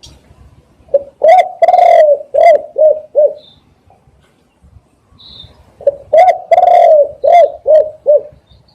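Spotted dove cooing: two phrases of about six low coos each, the third note of each phrase drawn out longer than the rest.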